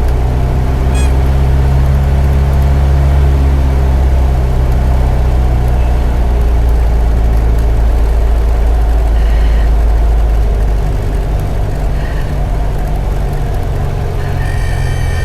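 Cessna light aircraft's piston engine and propeller running with a steady low drone; about ten seconds in, the deep hum weakens and the sound gets a little quieter.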